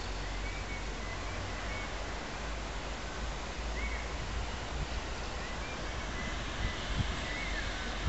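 Steady outdoor background noise with a low wind rumble on the microphone and a few faint bird chirps. There are a couple of soft thumps about seven seconds in.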